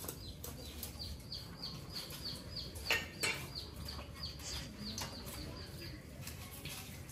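A bird chirping over and over, a steady run of short, high, falling chirps two or three a second that stops about six seconds in. Two sharp clacks come about three seconds in.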